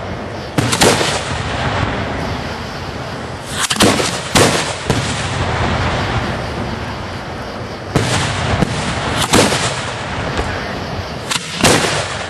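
Aerial fireworks shells going off at the firing site: a series of loud, sharp booms every one to four seconds over a steady background of noise.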